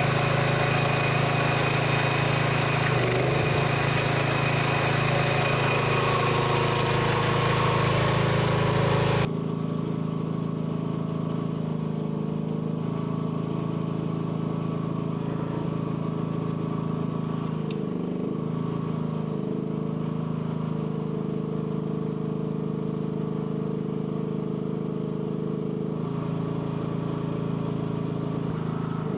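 Mini excavator's small engine running steadily, with a few brief dips and wavers in pitch. About nine seconds in the sound turns suddenly quieter and duller.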